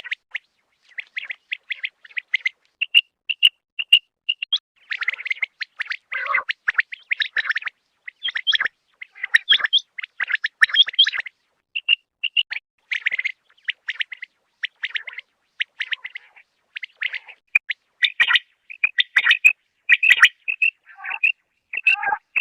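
Common quail calling: many short, high chirping notes in quick runs with brief pauses between them.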